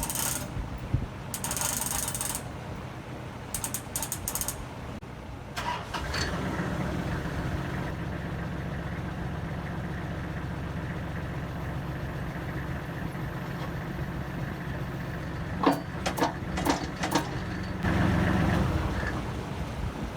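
Metal clinking and rattling of a chain being handled, then from about six seconds the Kubota L35 tractor's diesel engine running steadily as the backhoe's hydraulics move the bucket. A few sharp metal clanks come near the end, and the engine briefly gets louder just after them.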